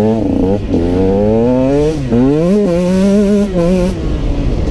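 2016 Husqvarna TE 125 two-stroke engine revving hard under acceleration: the pitch climbs and falls back twice as the rider shifts up, then holds high before dropping off near the end as the throttle closes.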